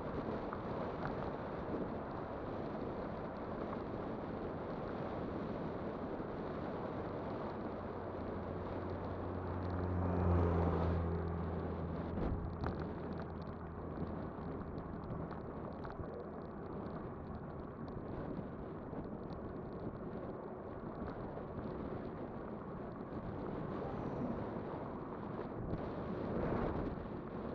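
Steady wind rushing over the microphone and road noise from a moving e-bike. About ten seconds in, a motor vehicle's engine hum swells and fades over a few seconds as it passes.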